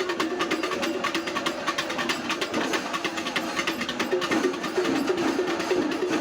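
Kerala temple-festival percussion ensemble playing fast, dense drum strokes, with a steady, wavering pitched tone sounding over the drumming.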